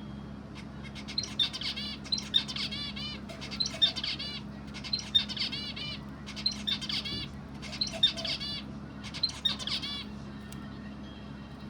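A songbird singing a short phrase of rapid, arching high chirps, repeated about seven times at roughly one-second intervals.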